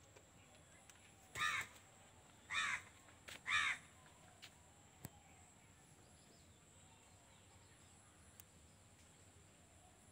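Three short, harsh, caw-like bird calls about a second apart, followed by a faint click.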